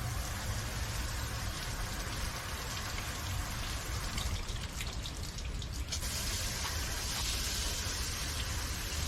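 Water from a garden hose spraying onto the car, a steady splashing hiss that turns hissier about six seconds in.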